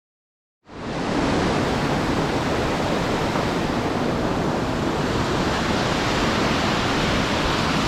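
Steady rushing of river water over falls and rapids. It cuts in out of total silence less than a second in and holds even.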